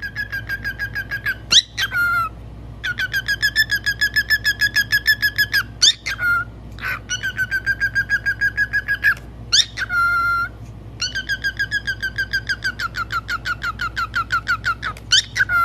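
A parrot making a rapid, evenly pulsed whistled trill of about seven notes a second, in four runs of a few seconds each, with short upward-sliding whistles between them.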